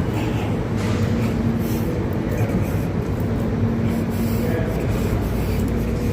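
Subway train running: a steady rumble with a low motor hum that fades in and out.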